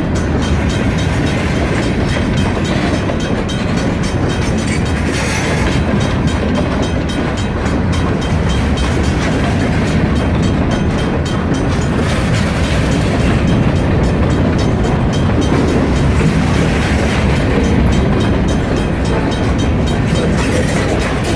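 Freight train rolling past: a steady rumble of railcar wheels on the rails, with a fine rapid clatter over it.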